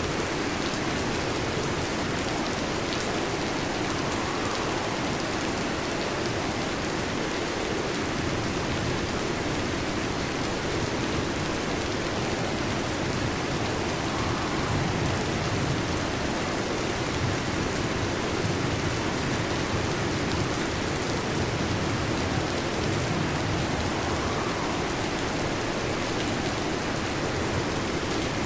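Heavy rain falling on a metal roof: a steady, even hiss of countless drops with no change in strength.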